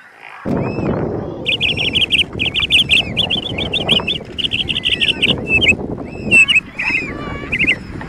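Bird calls: repeated bursts of fast, high chattering notes, several to a burst, over a steady low rumbling noise that comes in about half a second in.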